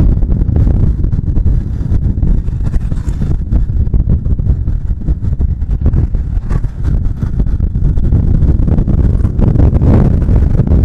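Riding on a Bajaj Pulsar 150 motorcycle: wind buffeting the microphone over the rumble of the bike and the road. The sound is loud and steady.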